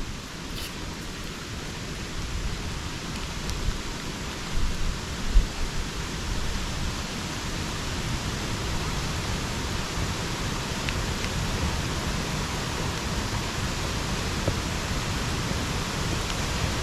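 Steady rain falling in a subtropical rainforest, an even hiss with scattered drip ticks. A few low thumps come about four to five seconds in.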